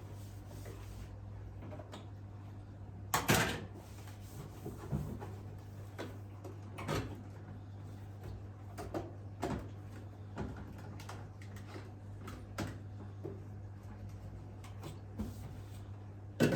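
Scattered knocks and clicks of hard parts being handled and set down, the loudest a sharp double knock about three seconds in and another hard knock at the very end, over a steady low hum.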